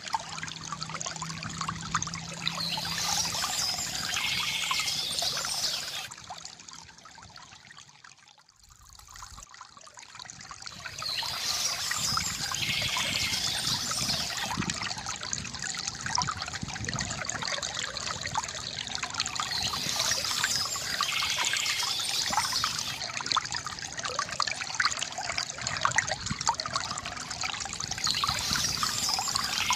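Water trickling and gurgling from a bamboo fountain, steady apart from a fade down to near-quiet about eight seconds in before it comes back up.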